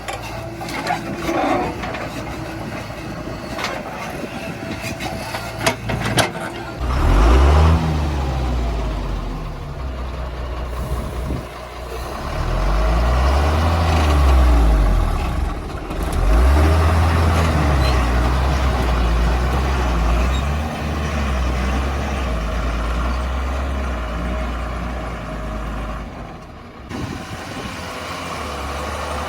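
Heavy diesel engine revving up and down in several swells under load, after a few sharp knocks in the first seconds.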